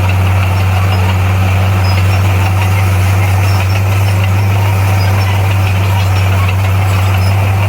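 Bulldozer's diesel engine running steadily under load, a deep, unchanging drone.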